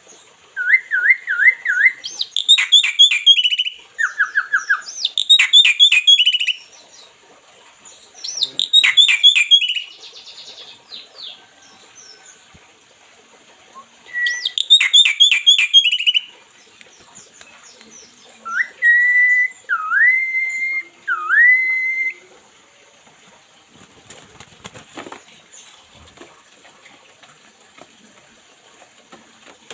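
A pet bird whistling and chirping in short bursts of wavering whistles and quick falling trills, repeated several times, with a run of three slurred whistles past the middle. It falls quieter near the end.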